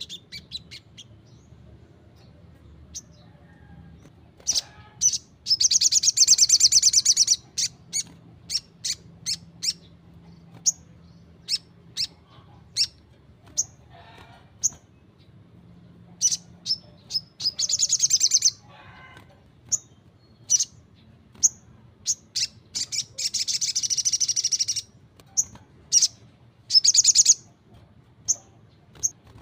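Little spiderhunter calling: sharp single chirps at irregular intervals, broken by several rapid high trills lasting one to two seconds each.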